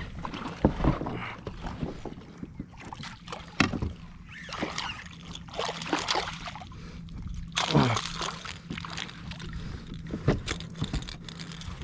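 Water splashing and sloshing right at a kayak, with many irregular sharp splashes and knocks against the hull.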